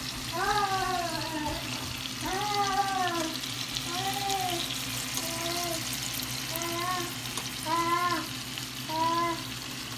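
Ground-beef patties frying in a skillet with a steady sizzle. Over it, a baby gives about eight short, pitched coos, each rising and then falling, roughly one a second.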